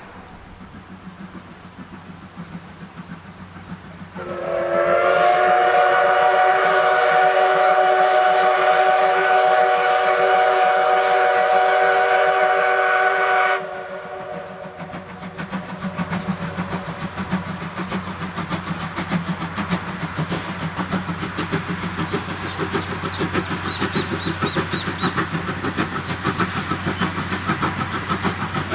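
Steam whistle of the C11 123 tank locomotive blowing one long blast of about nine seconds, starting about four seconds in and cutting off sharply. After it the locomotive's exhaust chuffs in a rapid, even beat that grows louder as the engine works past.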